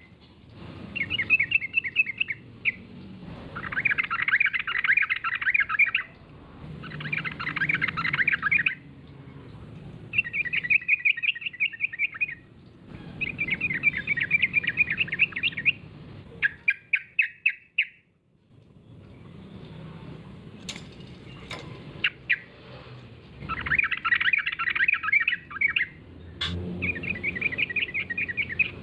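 Yellow-vented bulbul (trucukan) singing: fast, chattering phrases of one to three seconds, repeated with short pauses. There is a brief silent gap about two thirds of the way in, and a few sharp clicks soon after.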